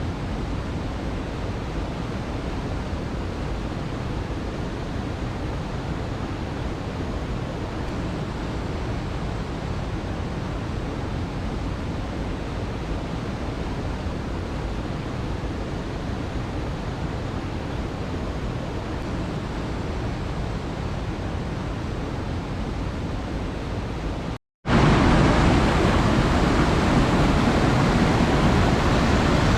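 Waterfall: a steady rush of falling water. About three quarters of the way in, it drops out for a moment and comes back louder.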